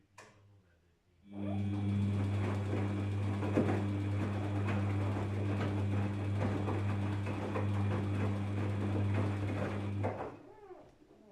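Daewoo DWD-FT1013 washing machine running in its rinse cycle: a steady electric hum with water noise that starts about a second in and cuts off abruptly near the end.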